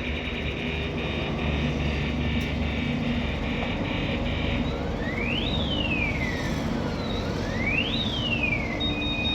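Electronic vehicle alarm cycling through its tones: a fast pulsing beep, then two rising-and-falling wails, then a steady tone near the end. A steady low engine hum runs underneath.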